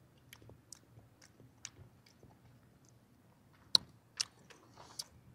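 A man chewing a mouthful of macaroni and cheese, picked up close on a clip-on microphone: soft, scattered mouth clicks, with two sharper clicks a little past halfway.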